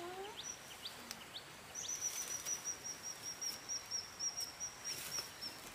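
A small bird singing a fast series of high, evenly repeated notes, about four or five a second, starting a couple of seconds in and lasting nearly four seconds, after a few short high chirps.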